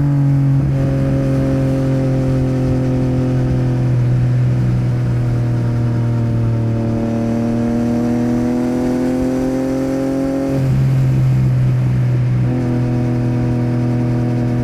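Yamaha MT-09's three-cylinder engine running through a Yoshimura R77 exhaust while riding. The pitch sinks and rises slowly, with sudden changes in the note about half a second in and again near the end.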